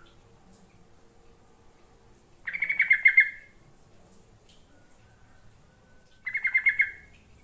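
Yellow-vented bulbul (trucukan) calling: two bursts of quick bubbly chattering notes, each lasting under a second, about four seconds apart.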